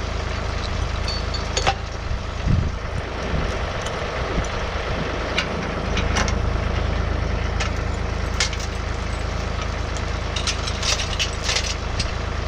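John Deere 3046R compact tractor's diesel engine running steadily, with scattered sharp cracks and snaps over it, several close together near the end.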